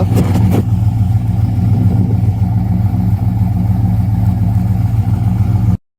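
Steady low drone of a car or truck heard from inside the cab, with a few brief knocks in the first second. The sound cuts out abruptly just before the end.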